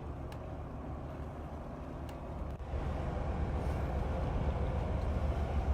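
Boat engine running with a steady low rumble, getting louder about two and a half seconds in.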